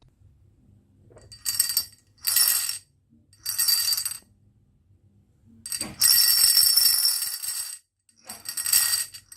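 Marbles rolling and clattering down a marble run track with a metallic ringing, in several short runs and one longer run of about two seconds just after the middle.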